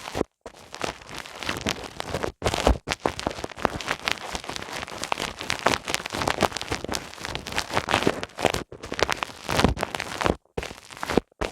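ASMR ear massage: hands rubbing, scratching and pressing on a binaural microphone's ears, a dense close crackling and rustling full of small clicks. The sound cuts out to silence for a moment a few times.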